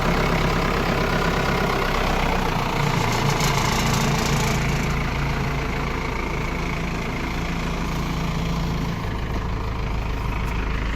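Caterpillar 424B2 backhoe loader's diesel engine idling steadily, its low hum shifting slightly about nine seconds in.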